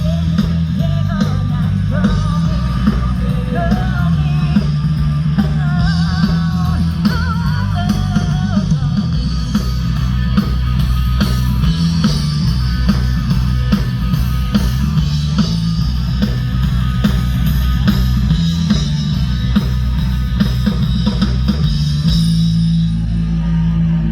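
A live rock band playing: a singer over electric guitar, bass and a steady drum-kit beat, with the vocal line clearest in the first several seconds.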